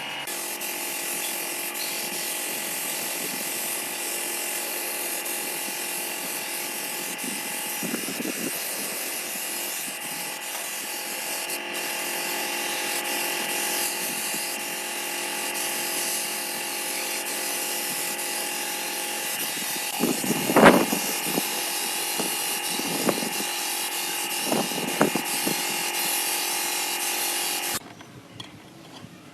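A steady mechanical whir with several fixed pitches, with a few sharp knocks in the last third; it stops abruptly near the end.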